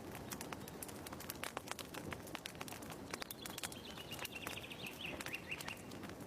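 Wood fire crackling with many irregular sharp pops, and a bird chirping in a quick falling series in the second half.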